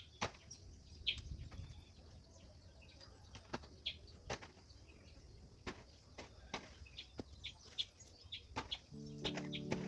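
A run of short, sharp knocks and clicks at uneven spacing, with a few brief high chirps among them. Music comes in near the end.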